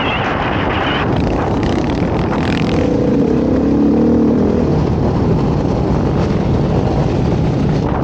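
Dirt bike engine running on the move, its note climbing under throttle about halfway through and then easing off.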